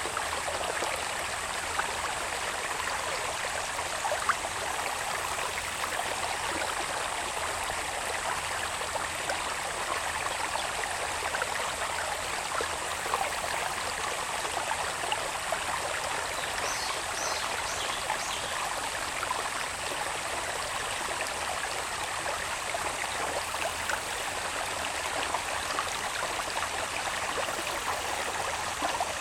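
A small stream of water running steadily along a channel down from the hills, with a steady high-pitched insect drone over it and a few short chirps about halfway through.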